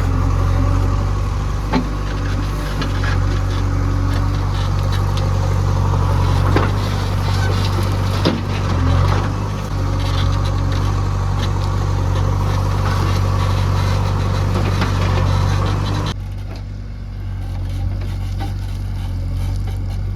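Heavy diesel machinery engine running steadily, with a few sharp knocks over it. About sixteen seconds in, the sound turns duller and a little quieter.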